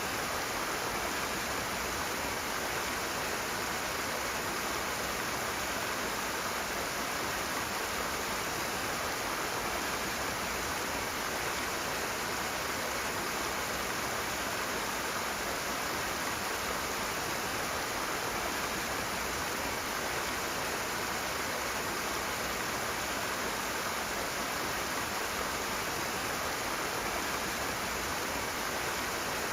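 Rushing water: a steady, unbroken rush of a fast-flowing stream, even in level with no distinct splashes.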